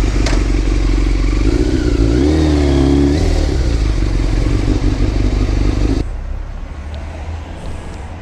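Motorcycle engine running loudly while riding, its pitch going up and down briefly about two seconds in; about six seconds in the sound drops suddenly to a quieter, lower engine note.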